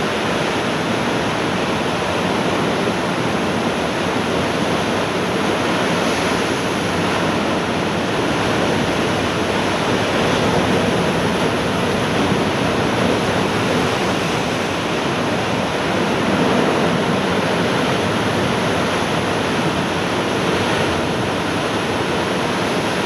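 Heavy ocean surf from a typhoon swell: a steady, loud wash of breaking waves that rises and falls slightly in loudness.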